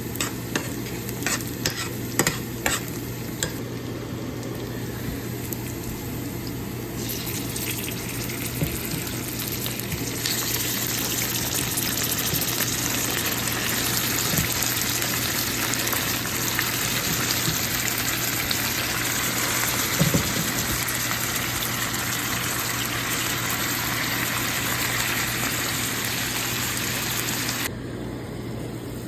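Quail pieces frying in hot oil in a pan, sizzling steadily, with several sharp utensil clicks against the pan in the first few seconds. The sizzle grows louder about ten seconds in and drops off suddenly near the end.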